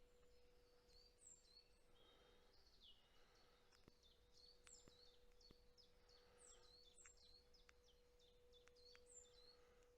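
Faint woodland birdsong: several birds giving quick, high chirps and short hooked notes all through. Under them runs a steady, faint, low hum, and a few soft clicks come near the middle.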